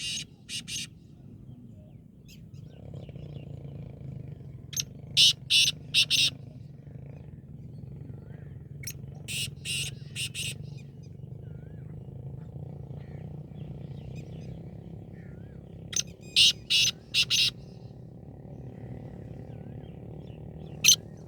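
Black francolin calling: its song repeats every four to six seconds, each phrase a quick run of four or five short, loud notes. A steady low hum runs underneath.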